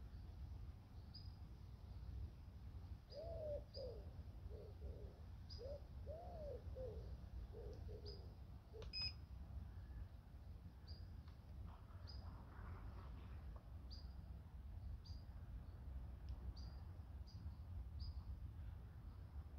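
Faint lakeside outdoor ambience: a small bird chirps in short high notes about once a second, with a run of lower rise-and-fall calls a few seconds in, over a steady low rumble. One sharp click sounds about halfway through.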